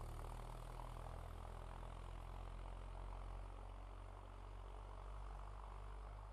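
Faint, steady low drone of a 1966 Land Rover Series 2a engine running.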